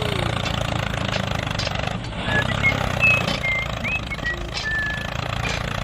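A small engine running steadily with a low hum, likely the mini tractor's. A few short high chirps come through around the middle.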